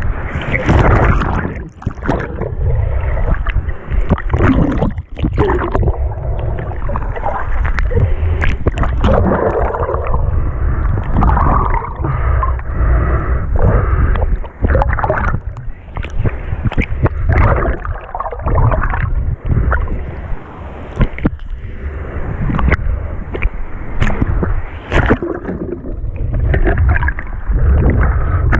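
Sea water sloshing and gurgling close around the microphone, with frequent knocks and rubbing of handling noise.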